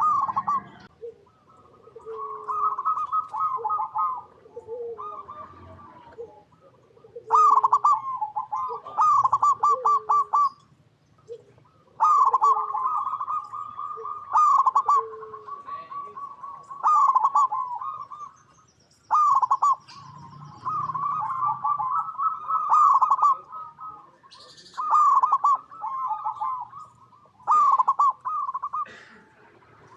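Zebra dove (perkutut) cooing: repeated phrases of quick staccato, trilled coos lasting one to three seconds each, with softer, lower single coos in between.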